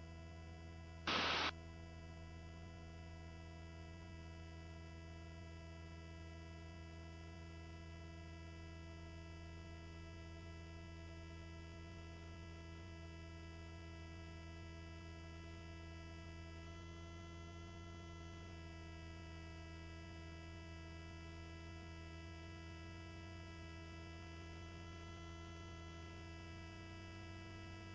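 Faint, steady hum of many held tones: a helicopter's engine and rotor drone heard through the headset intercom feed. A short burst of noise comes about a second in.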